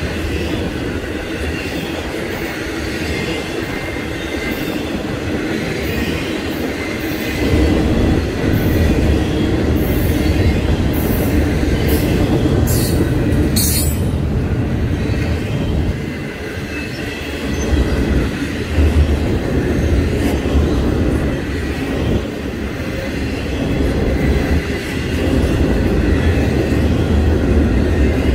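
Intermodal freight train's well cars, loaded with trailers and double-stacked containers, rolling past: a steady rumble of steel wheels on rail with a thin high wheel squeal running through it. It gets louder about seven seconds in.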